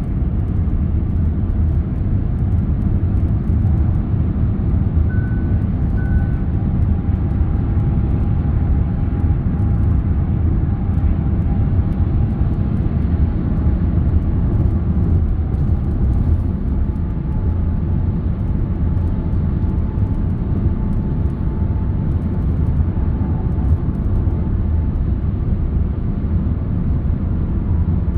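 Car on the move: steady low road and engine rumble, with a faint whine that drifts slowly in pitch and two brief high tones about five seconds in.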